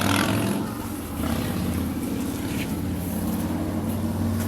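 An engine running steadily with a low, even hum; a hiss that starts with it fades about half a second to a second in.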